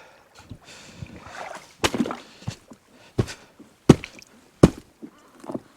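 Boots stepping on thin creek ice over shallow water: the ice cracks and breaks under the steps with some sloshing, four sharp cracks about a second apart in the second half.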